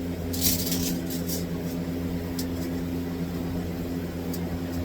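A steady mechanical hum with a few short clicks and rattles: the first about half a second in, more around a second and a quarter, near two and a half seconds and after four seconds.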